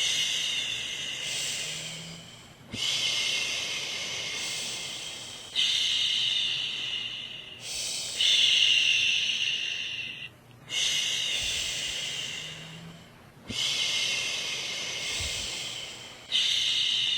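A woman shushing a baby to sleep: long, steady 'shhh' sounds repeated one after another, each lasting two to three seconds with a brief breath-gap between.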